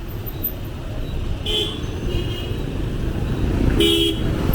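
Two short vehicle horn beeps, about a second and a half in and near the end, over a steady low rumble of street traffic.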